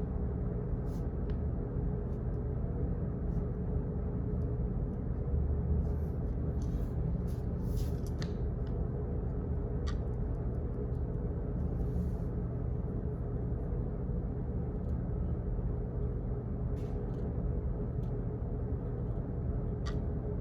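Office background noise: a steady low rumble and hum with occasional light clicks and taps at irregular times, a small cluster of them between about six and eight seconds in.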